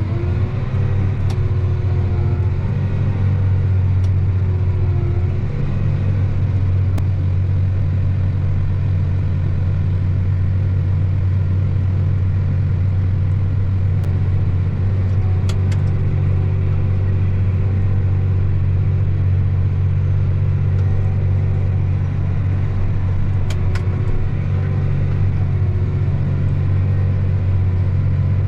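Vehicle engine running under way at a steady speed, a deep even drone with a brief rise in pitch right at the start.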